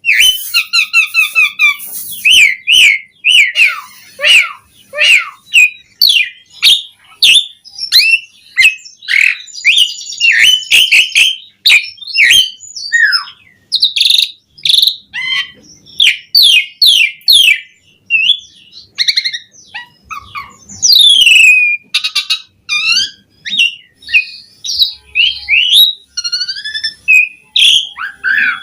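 Asian pied starling (jalak suren) singing a long, varied song: clear whistles, sliding notes, rattling chatter and sharp clicks strung together in quick phrases with hardly a break, full of mixed-in 'isian' fill-in phrases.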